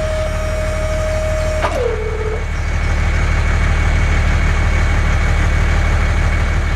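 A small motor running steadily with a low hum. A higher whine over it drops in pitch just under two seconds in.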